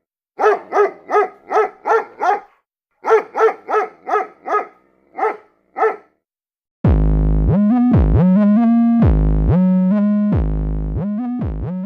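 Sound effect of a small dog barking: about a dozen short, evenly spaced barks in two runs. About seven seconds in, a synthesizer jingle starts, with deep stepping bass notes under a melody.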